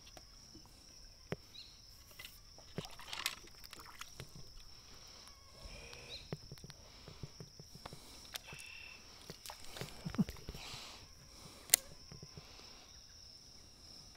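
A steady high-pitched insect drone, with scattered sharp clicks and knocks over it; the loudest click comes near the end.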